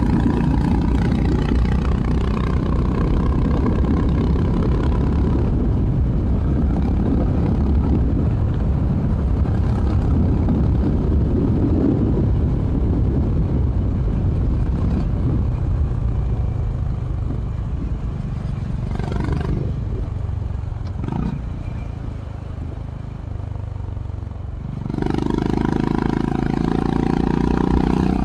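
Honda CB350 RS's air-cooled single-cylinder engine running through its stock exhaust while riding. It runs steadily at first, eases off and gets quieter about two-thirds of the way through, then opens up louder again near the end.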